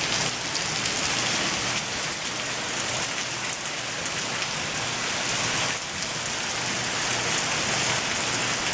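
Heavy rain pouring steadily onto a paved parking lot during a storm.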